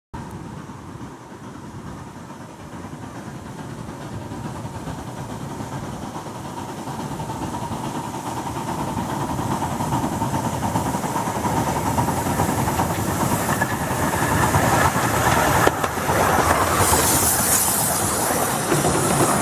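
Miniature steam railway train approaching along the track, growing steadily louder: wheels clattering over the rails, with a steady ringing tone from the rails early on and a high hiss building near the end.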